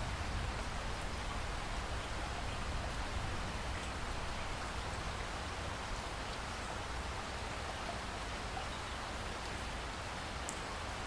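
Steady rain falling, an even hiss with a low rumble beneath and a few faint drop ticks.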